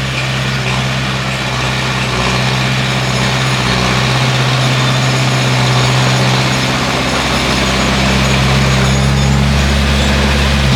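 Bulldozer's diesel engine running steadily under work, with loudness rising slightly over the seconds.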